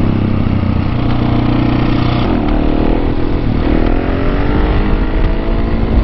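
Husqvarna 701 supermoto's single-cylinder engine pulling under way. Its revs drop and climb again twice, about two and three and a half seconds in, as it shifts up through the gears.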